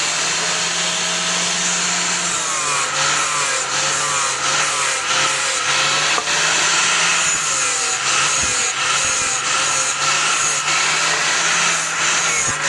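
A power grinder working steel, its motor pitch wavering up and down as the load changes, under a steady hiss of abrasion.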